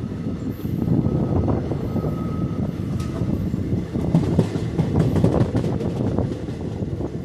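Passenger train running along the track: a steady low rumble with frequent clicks and clatter from the wheels over the rails.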